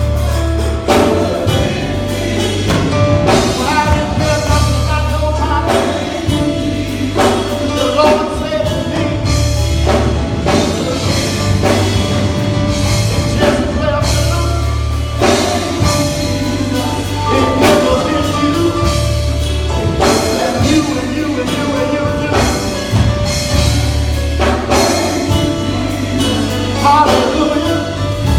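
Gospel music: singing over a band with a sustained bass line and a steady drum beat.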